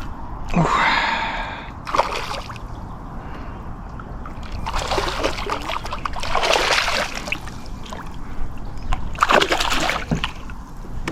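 Water splashing in several bursts as a small bass thrashes at the surface while being reeled in, with a short wordless vocal sound near the start.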